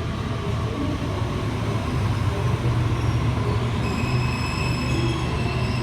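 Waratah double-deck electric train running into the platform with a steady low hum and rumble. Thin high wheel squeal sets in about four seconds in as it slows.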